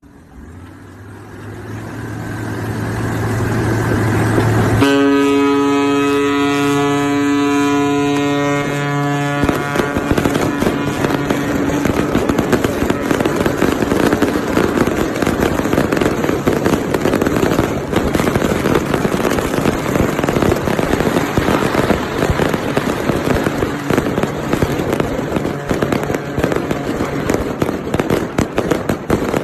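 A low drone swells in, then a ship's horn sounds one long steady blast of about five seconds. A long dense run of firecrackers crackles and pops after it, the usual send-off for a ship being launched.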